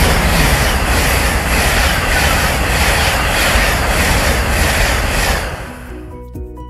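LNER express train passing close by at speed: a loud, steady rush of wheels on rail with a regular beat about twice a second. The sound cuts off about five and a half seconds in and background music with plucked notes begins.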